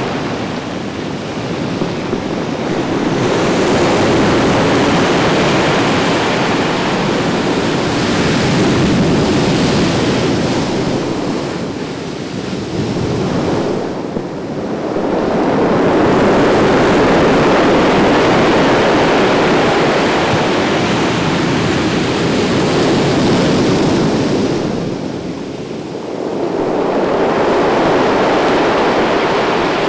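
Atlantic surf breaking on the beach: the rush of waves swells and eases in long surges, each building to a loud crash and washing back, with short lulls between waves roughly every twelve seconds.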